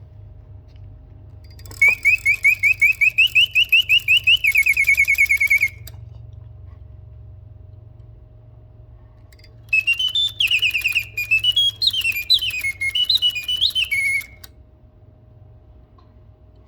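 A 1950s mechanical singing bird whistling birdsong in two phrases. The first is a fast run of chirps, rising slightly, that ends in a lower trill. The second, about four seconds later, is a series of whistles gliding up and down. A faint steady hum runs underneath.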